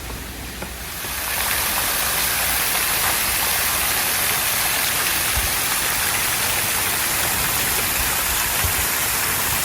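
Waterfall: a steady rush of falling, splashing water, swelling louder about a second in and then holding even.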